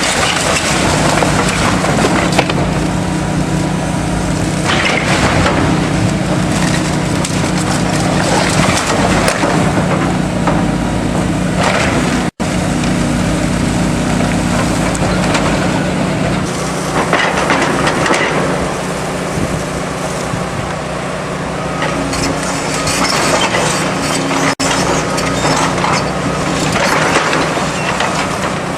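Heavy demolition excavator's diesel engine running steadily while the machine crushes and tears apart a building, with repeated bursts of cracking, splintering and crunching debris. The sound cuts out for an instant twice.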